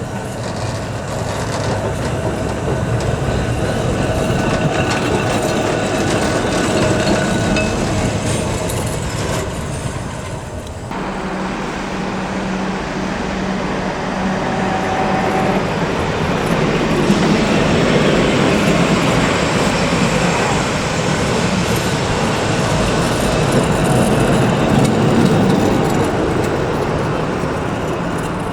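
Heritage electric tram running on its tracks with steady wheel and running noise. The sound changes abruptly about eleven seconds in, after which a steady low hum is added.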